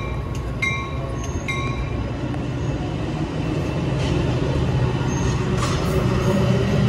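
Metra bilevel commuter cars rolling past on the rails, a steady rumble of wheels and cars that grows louder towards the end. A bell dings about once a second over the first second and a half, then stops.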